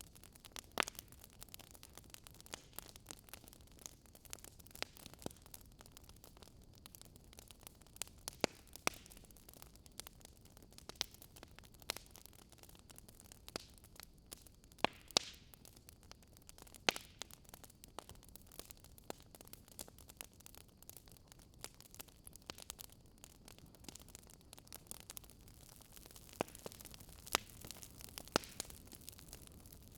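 Fire crackling in a fireplace: irregular sharp pops and snaps, a few louder ones standing out, over a faint steady hiss.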